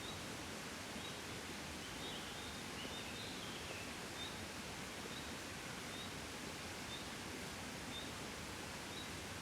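A gentle, steady breeze blowing outdoors. A faint high chirp repeats about once a second, with a short twittering call from about two to four seconds in.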